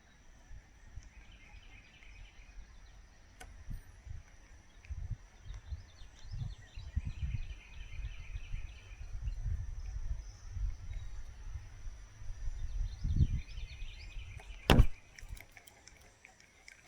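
Outdoor ambient noise: a low, uneven rumble on the microphone that swells and fades, with faint higher chirring now and then and one sharp click about fifteen seconds in.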